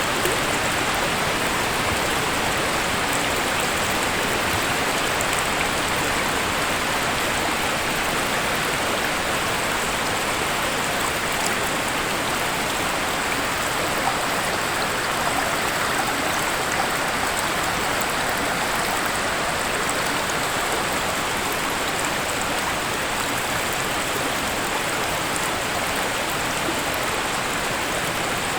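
Waterfall: steady, unbroken rushing of falling water with no change in level.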